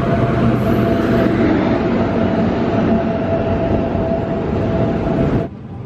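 Passenger train rolling into the station past the platform: a loud, steady rumble and rush of the locomotive and coaches on the rails, with a thin high tone held through it. It cuts off suddenly near the end.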